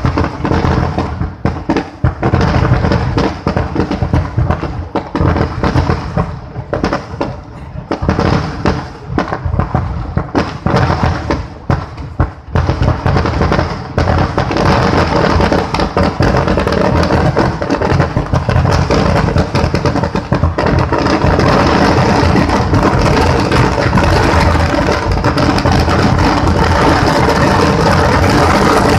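Fireworks display: a rapid string of firecracker and shell bangs, separate at first, that merges about halfway into one continuous dense barrage.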